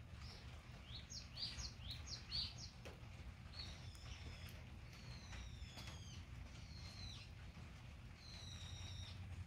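Small birds chirping: a run of quick high chirps in the first couple of seconds, then several longer, falling whistled notes. A low steady rumble lies underneath.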